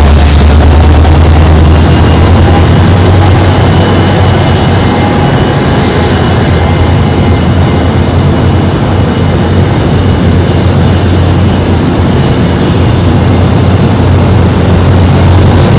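Korail Saemaul passenger train pulling out and rolling past along the platform. It makes a loud, steady rumble with a low hum that eases after about two seconds, and a faint high whine that fades away.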